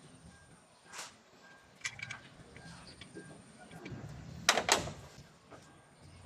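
Scattered clicks and knocks of tools and parts being handled during repair work, with two loud clacks in quick succession about four and a half seconds in.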